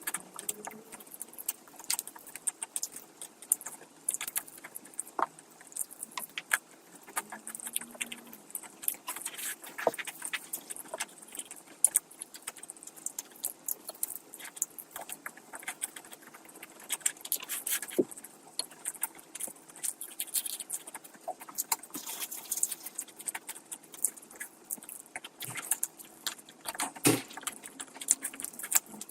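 Close-miked ASMR eating: chewing and wet mouth sounds, a dense, irregular run of sharp clicks, smacks and crunches.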